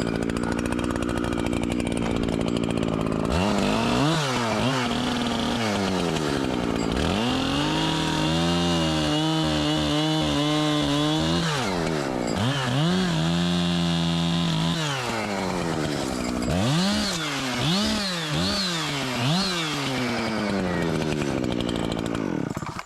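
Echo CS-7310 two-stroke chainsaw revving up and down, held at full throttle for two long stretches of a few seconds as it cuts wood, then quick blips of the throttle. The engine sound cuts off suddenly near the end, where the chain came off the bar.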